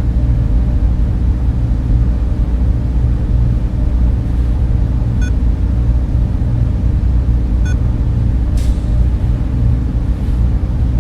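Steady low drone of a data center server room, its cooling fans and servers running without change. A couple of faint short chirps come about five and seven and a half seconds in, and a brief soft hiss near eight and a half seconds.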